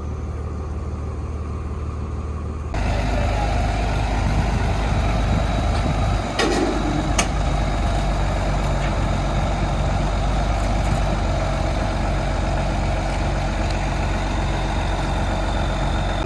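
Heavy truck diesel engine running steadily. The sound gets abruptly louder about three seconds in, and two sharp knocks come about six and seven seconds in.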